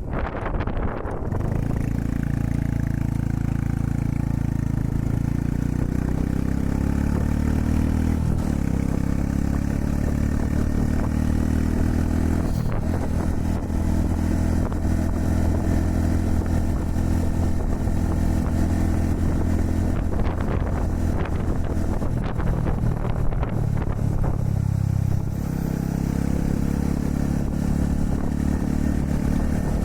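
Honda Super Cub 110's single-cylinder four-stroke engine running steadily while riding, its pitch shifting a few times with gear changes or throttle. Wind buffets the microphone briefly at the start.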